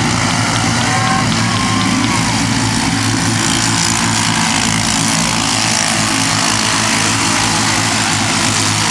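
Small engines of several kids' mini racing trucks running steadily together.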